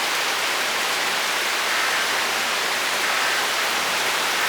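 Torrential thunderstorm rain pouring down steadily.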